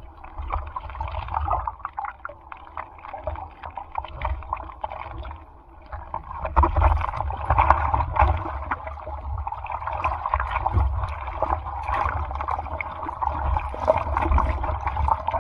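Sea water sloshing and splashing close to the microphone in rough typhoon surf, in uneven bursts that grow louder about six seconds in, over a low wind rumble.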